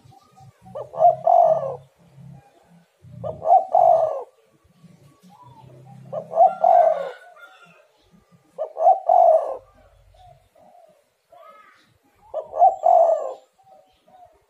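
Spotted dove (tekukur) cooing: its short phrase of coos repeated five times, about every two and a half seconds.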